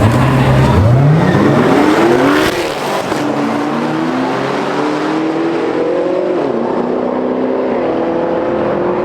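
Car engine accelerating hard: its note sweeps steeply up about a second in, then keeps climbing with two short drops in pitch later on, as it shifts up through the gears.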